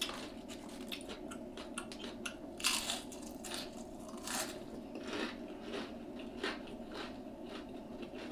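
Close-up chewing of deep-fried, batter-coated calamari: a run of crisp crunches and bites, with louder crunches about three and four and a half seconds in.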